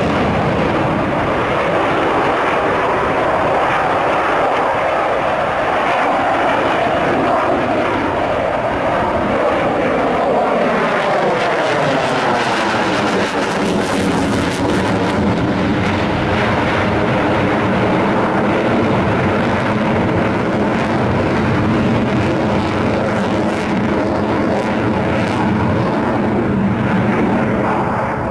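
Sukhoi Su-27 fighter's twin AL-31F turbofan engines in a flying display, making a loud, continuous jet roar. A sweeping tone within the roar falls in pitch about ten to fourteen seconds in.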